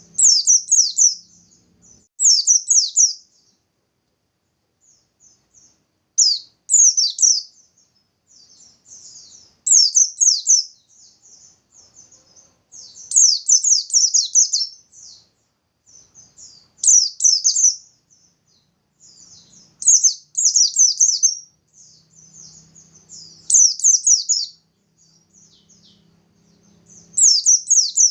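Pleci bustomi white-eye singing in loud, fast, very high bursts about a second long, repeating every few seconds with softer twittering between: its full 'gacor' song.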